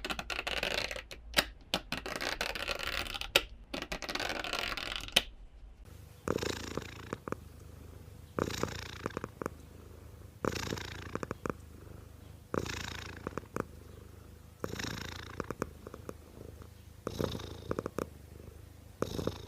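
A cat purring, swelling and fading about every two seconds with its breaths. It comes after a few seconds of dense, crackling, scratchy clicks that cut off abruptly about five seconds in.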